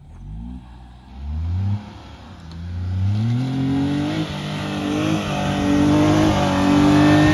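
Tata Tigor i-CNG's 1.2-litre three-cylinder engine revving hard under load while climbing a steep slope of loose sand. The revs rise in two short surges, climb again from about two seconds in, then hold high and get louder as the car comes closer.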